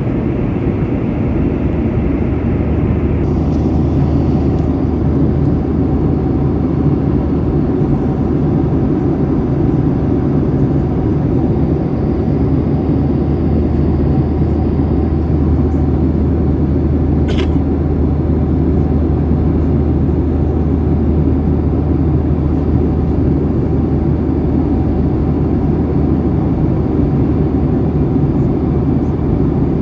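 Steady jet engine and airflow noise heard inside a jet airliner's cabin, a constant low hum with no change in level. One short click sounds about halfway through.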